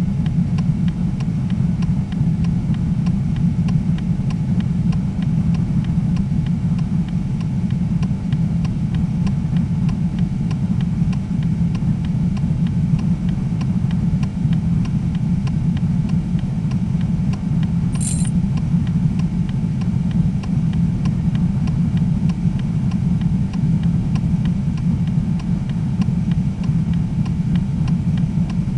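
Steady low rumble of a car on the move, with one brief high-pitched click or chirp about eighteen seconds in.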